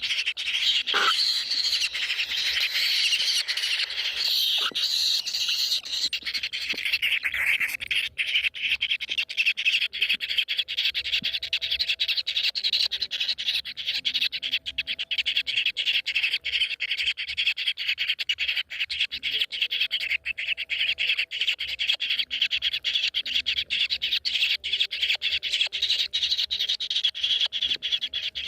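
A bird calling in a fast, unbroken run of short, high notes.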